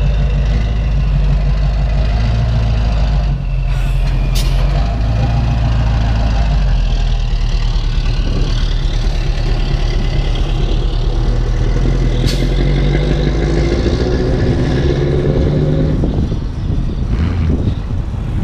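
Scania 142 14-litre V8 turbodiesel running, a deep steady engine note whose pitch rises and falls a little, with short sharp sounds about four seconds in and again about twelve seconds in.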